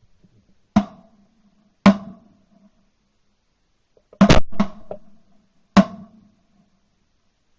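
Six sharp knocks on something hollow, each with a short ring: single strikes about one and two seconds in, a quick run of three in the middle, and one more near the end.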